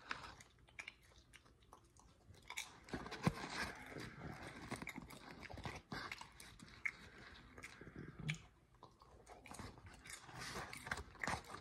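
Faint, irregular chewing and crunching of undercooked microwave popcorn, full of unpopped kernels.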